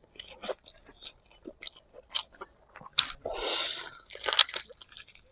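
Close-miked chewing and biting on spicy braised pig feet: a run of short wet clicks and smacks, with a louder click about three seconds in followed by a brief noisy stretch.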